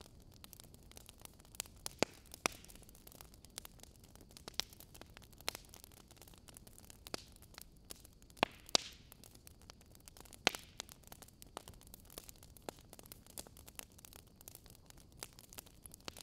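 Fireplace crackling: a steady low hiss broken by irregular sharp pops and snaps of burning wood, a few louder pops about two, eight and a half, and ten and a half seconds in.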